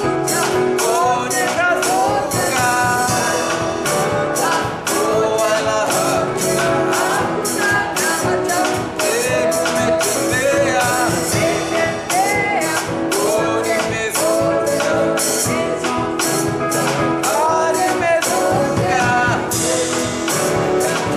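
Live worship band music with voices singing a melody over a steady percussion beat.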